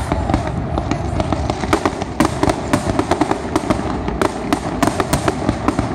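Aerial fireworks bursting in quick succession: a dense run of sharp bangs and crackles, several a second, over a continuous low rumble.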